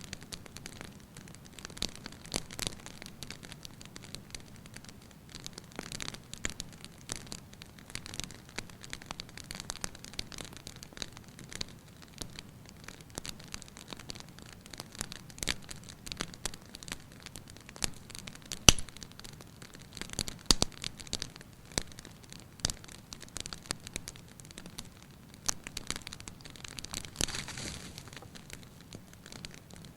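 Wood fire crackling in a fireplace, with irregular snaps and pops over a low hiss; the sharpest pop comes a little past the middle.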